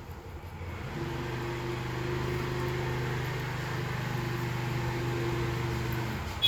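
A steady low mechanical hum that starts about a second in and stops near the end.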